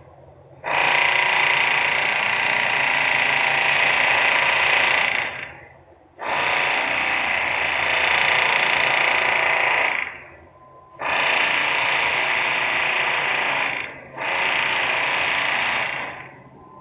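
Loud industrial equipment noise: four harsh, hissing-grinding bursts of a few seconds each, each switching on and off abruptly with short gaps between them.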